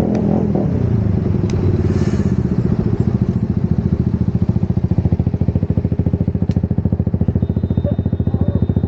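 Motorcycle engine running with a steady, evenly pulsing beat, a little rougher and louder over the first couple of seconds.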